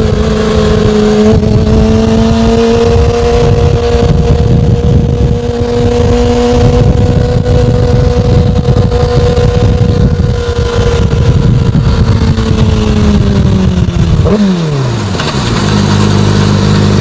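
Motorcycle engine running at steady revs under rumbling wind noise. About fourteen seconds in the pitch falls away as the bike slows, and it settles into a steady idle.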